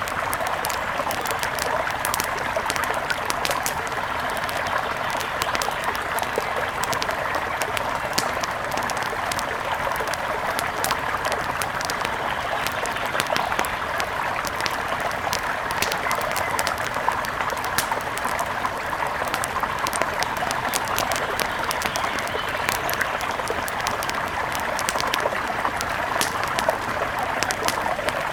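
Steady rush of a river with frequent sharp crackles and pops from a wood fire scattered throughout.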